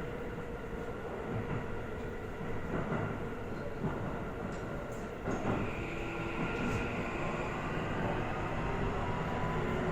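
Running sound inside a Toei 5500-series commuter train: wheels rumbling on the rails with a few knocks over rail joints. From about six seconds in, the traction motor whine rises slowly in pitch as the train picks up speed.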